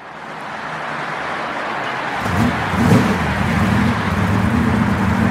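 Car engine sound fading in: a rushing noise, joined about two seconds in by a steady low engine hum.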